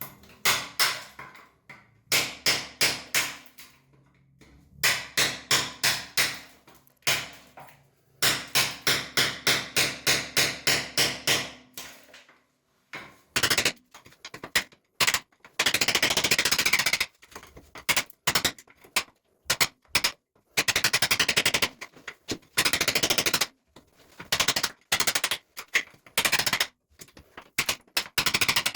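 Hard repeated hammering or chipping on a hard surface, in bursts: separate blows about four or five a second for the first half, then faster rattling runs of strikes with short pauses between them.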